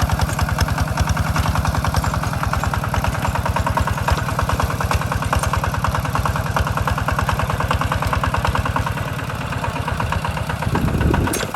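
Two-wheel walking tractor's diesel engine chugging with a fast, even firing beat. Near the end it gives a brief louder low surge, then falls back.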